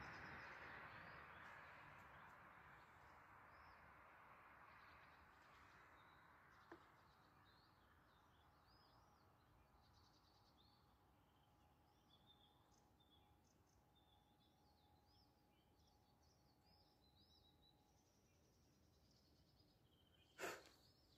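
Near silence with faint birdsong: many short, high chirps rising and falling through the middle, over a faint hiss that fades during the first few seconds. A single tick about a third of the way in and a sharp knock near the end.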